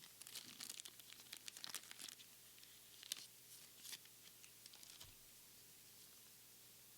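Foil booster pack of Pokémon cards crinkling and tearing open: dense crackling for about two seconds, a sharp crackle near three seconds, then scattered crinkles that die away about five seconds in.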